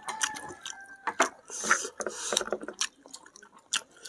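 Close-up wet eating sounds of a person chewing food eaten with the hands: lip smacks and mouth clicks in a quick, irregular run.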